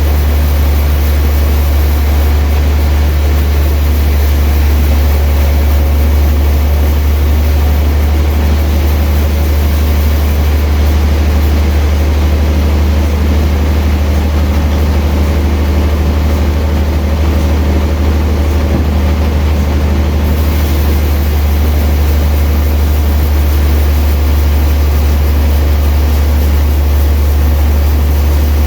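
Sawmill machinery running steadily, with a deep, continuous hum.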